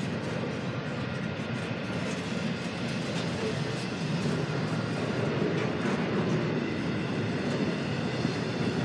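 Double-stack container freight train rolling past: a steady, even noise of steel wheels on the rails, with a few faint clicks.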